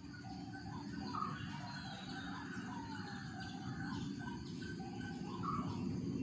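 Several birds calling and singing, short whistled phrases that overlap and repeat throughout, over a low steady background rumble.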